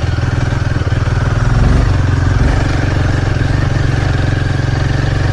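Royal Enfield Himalayan 450's single-cylinder engine running steadily as the motorcycle is ridden over a rough off-road track.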